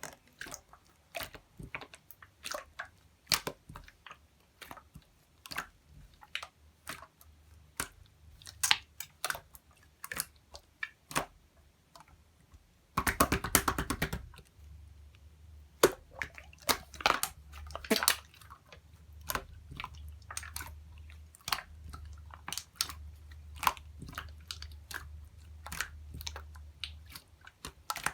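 Clear slime being pressed, stretched and poked by hand, giving scattered wet clicks and pops, with a quick run of rapid clicking about halfway through. A faint low hum sits under much of the second half.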